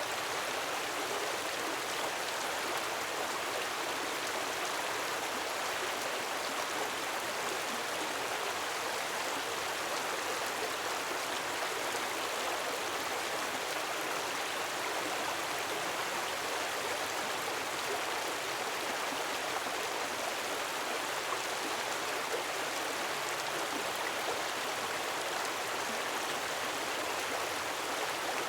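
Gentle waterfall splashing steadily, an even rush of falling water.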